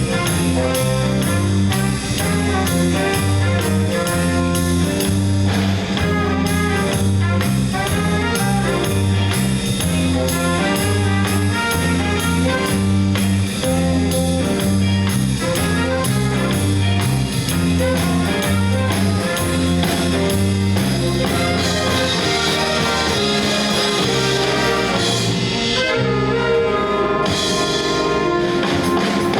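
Live jazz big band playing: trumpets, trombones and saxophones over a bass line stepping steadily through low notes.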